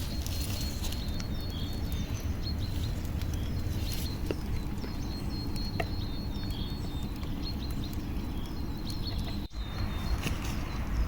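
Outdoor ambience: short high chirps repeating over a steady low rumble, with scattered sharp clicks. The sound drops out briefly about nine and a half seconds in.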